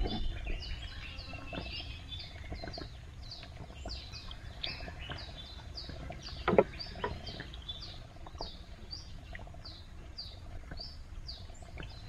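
Birds calling in a long run of short falling chirps, about two a second, over a low rumble. A single sharp knock stands out about six and a half seconds in.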